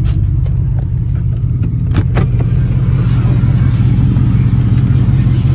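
Steady low rumble heard from inside a car in a tunnel car wash, with a few sharp clicks in the first two seconds and a faint hiss joining from about three seconds in.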